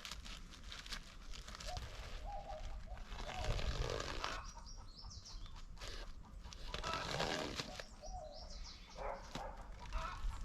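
Birds calling in short notes over rustling and scattered clicks.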